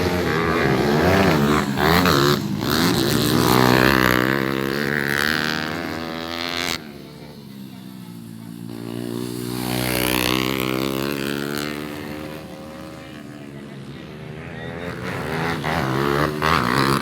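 Motocross dirt bike engines revving hard and shifting as the bikes race around the track, the pitch climbing and falling. The sound drops off suddenly about seven seconds in, then another bike swells up and fades away.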